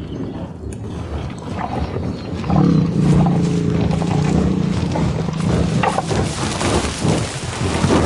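Buffalo calling: a long, low moo begins about two and a half seconds in and lasts a couple of seconds, over steady background noise, with shorter calls near the end.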